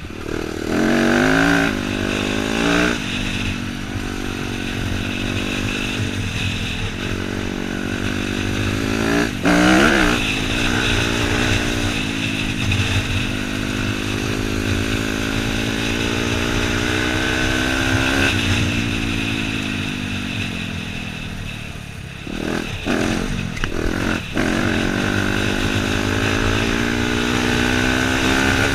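Dirt bike engine running under load on a trail ride, the revs rising and falling with the throttle, with sharp rev climbs about a second in and again near the middle, and a brief drop back before picking up again.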